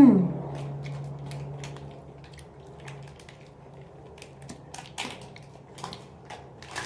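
A short hummed vocal sound at the start, then scattered small wet clicks and crackles of someone chewing a candy rope.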